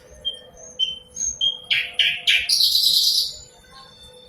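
Common nightingale singing: a few thin whistled notes, then three loud sharp notes, ending in a harsh buzzing rattle that lasts nearly a second.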